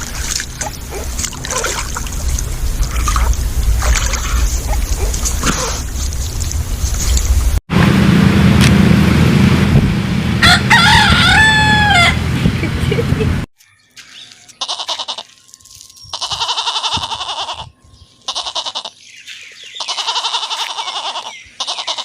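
Chickens clucking over a noisy background, then a rooster crowing once. After a cut, a goat bleats several times in separate calls of about a second each.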